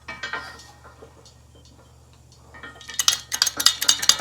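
Metal tools and parts clinking and clattering against each other: a few light clinks in the first second, then from about three seconds in a fast, irregular run of metallic clicking.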